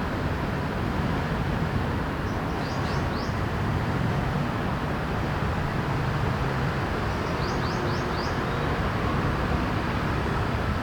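Steady low hum of city traffic. Twice, about two and a half and seven and a half seconds in, comes a quick run of four short high chirps.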